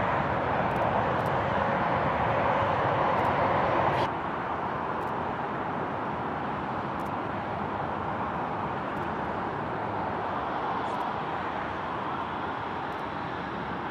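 Steady outdoor roar of vehicle traffic that drops abruptly to a lower level about four seconds in. A faint siren starts near the end.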